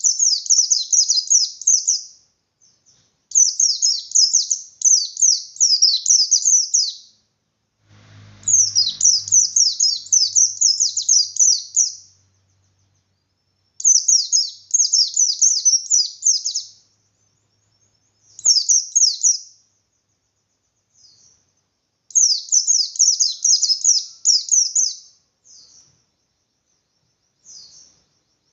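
A white-eye (pleci) singing its rapid 'ngalas' full song. It gives about six bursts of quick, high, down-slurred notes, each burst one to four seconds long, with short pauses between them.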